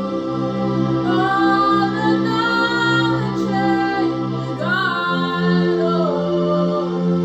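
Slow worship music: a woman singing long, gliding wordless notes over a sustained keyboard pad whose chord changes about five seconds in.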